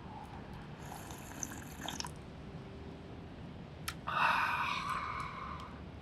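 Liquid being poured into a small vessel twice: a short, faint pour about a second in, then a louder, longer pour about four seconds in, with a few light clicks between.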